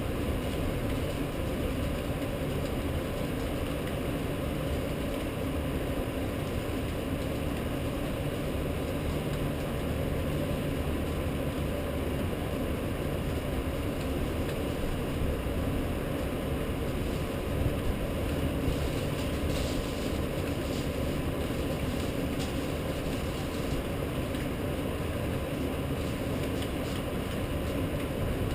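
Steady rain-storm noise with a constant low city rumble beneath it, and a few faint clicks about two-thirds of the way in.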